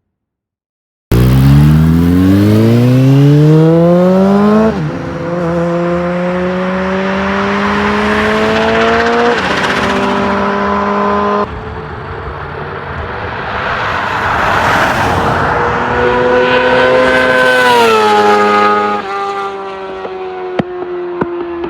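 Inline-four sport motorcycle engines accelerating hard through the gears. The pitch climbs and drops back at each upshift, then falls as the bikes pass by. It starts abruptly about a second in.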